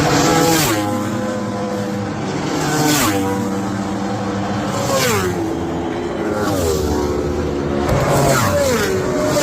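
Superbike racing motorcycle engines running at high revs. The engine note drops sharply in pitch about every two seconds, five times in all.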